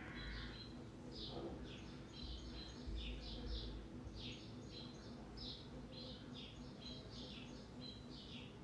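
Faint bird chirping: short high chirps repeated irregularly, one or two a second, over a low steady hum.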